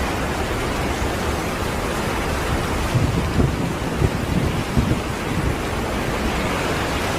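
Strong wind rushing steadily, with irregular low rumbling buffets about halfway through.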